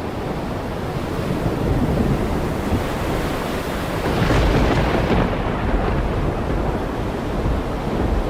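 Heavy rain falling steadily, over a deep low rumble, swelling louder about four seconds in.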